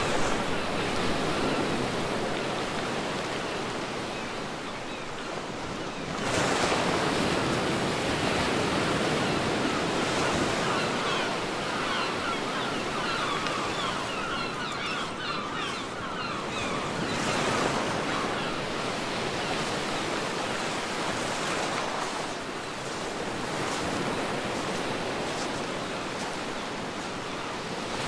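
Sea waves breaking and washing up a beach in a steady rush, with a fresh wave surging in about six seconds in and again around seventeen seconds.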